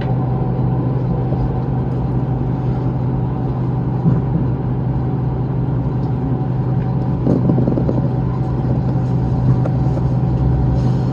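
Steady engine hum and running rumble of a JR Shikoku 2000 series diesel tilting railcar, heard from inside the train.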